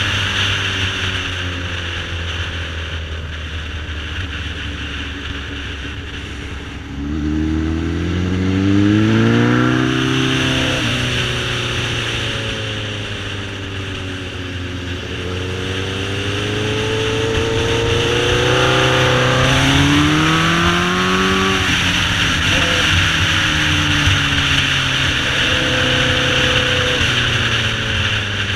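Sportbike engine revving up and dropping back as the bike accelerates out of corners, with the revs climbing twice and then falling off sharply near the end. There is steady wind rush over the microphone throughout.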